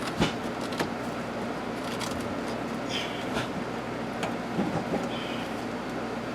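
Parts being handled during dash work: a few light clicks and knocks, the sharpest about a quarter second in, and a couple of brief squeaks, over a steady background hum.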